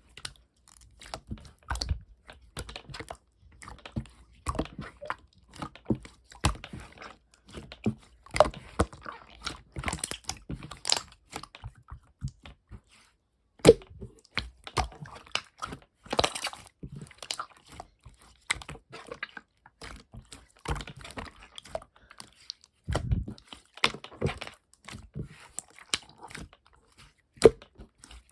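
Slime being squished and played with by hand, making an irregular run of clicks, crackles and small pops.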